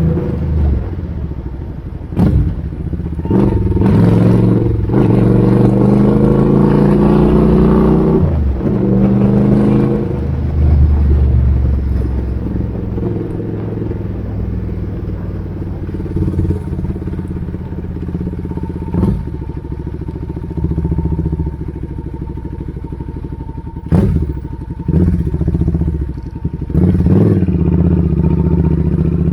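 Suzuki Intruder 800 V-twin motorcycle engine running loud through the exhaust under test. It revs up and holds for several seconds early on, drops back to idle, then gets a few short throttle blips near the middle and end.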